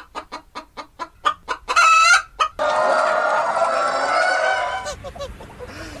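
Domestic hens clucking: a quick run of short clucks, then a louder drawn-out squawk about two seconds in. A sharp cut brings in a long, loud chicken call of about two seconds that fades near the end.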